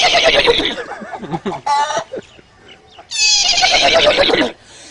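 A man imitating a horse's neigh with his voice: two long whinnying calls, one at the start and another about three seconds in, each dropping in pitch at the end.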